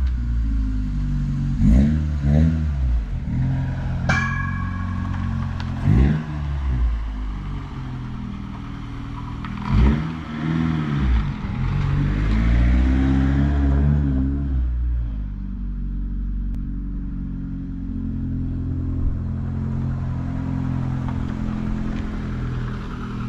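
Toyota AE86's four-cylinder 4A-GE engine revving up and dropping back several times as the car is driven, with short breaks at the gear changes, then running steadily in the second half.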